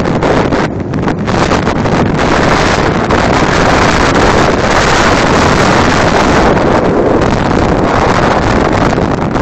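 Extreme wind buffeting the microphone: loud, continuous wind noise, with brief dips between gusts in the first couple of seconds.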